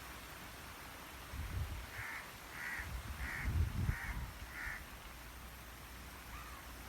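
A bird calling five times in a quick, even series, about two calls a second, with one fainter call near the end. A low rumble on the microphone runs under the series and is the loudest sound.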